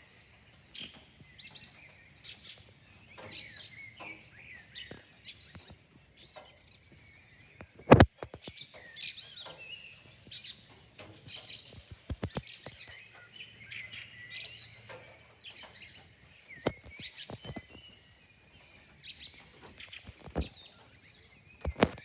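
Birds singing, a continuous run of varied chirps and warbled phrases. A few sharp clicks break in, the loudest about eight seconds in and others near twelve and twenty seconds.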